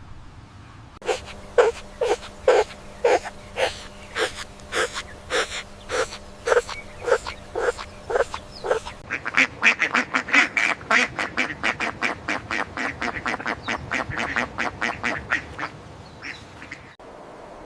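Short, repeated bird calls, about two a second, then a faster, denser run of calls from about nine seconds in that stops shortly before the end.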